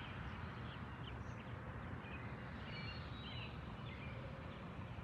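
Faint outdoor ambience before dawn: a steady low rumble of background noise with a few faint, short bird chirps scattered through it.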